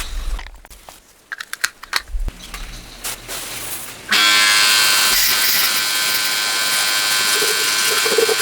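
A few light clicks and knocks, then about four seconds in a small electric power tool starts up abruptly and runs steadily with a high buzz.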